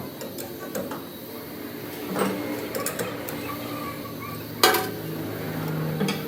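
Metal parts clinking and knocking: several light clinks and one loud metallic strike about four and a half seconds in, over a steady low hum.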